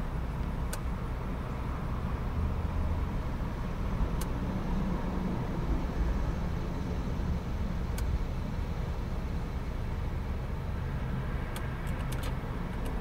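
2020 Ford Explorer's engine idling steadily in Park, heard from inside the cabin as a low hum. Sharp clicks come every few seconds, with a quick run of them near the end, as the drive-mode selector is switched through its modes.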